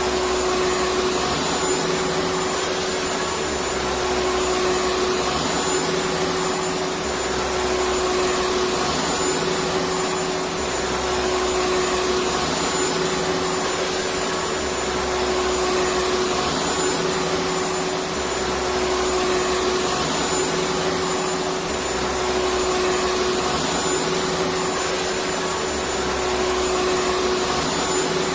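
Vacuum cleaner running steadily: a continuous rushing hiss over a steady hum, swelling slightly every few seconds.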